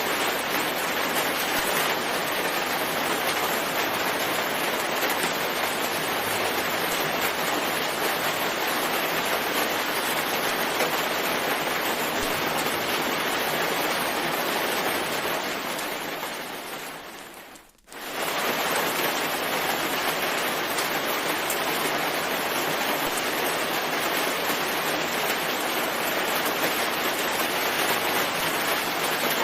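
Steady, dense rain. About two-thirds of the way through it fades away over a couple of seconds to almost nothing, then cuts straight back in at full level: the seam of a looped rain recording.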